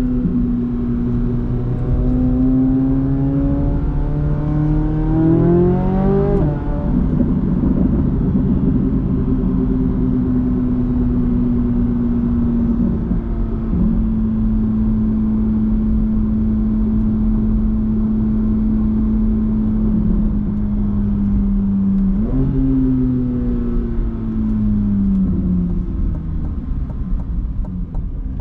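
Chevrolet Corvette C8 Z06's 5.5-litre naturally aspirated flat-plane-crank V8 climbing steadily through the revs for about six seconds under acceleration, then dropping in pitch at a gear change and holding a steady cruise. Later on the revs jump up suddenly, then fall away as the car slows.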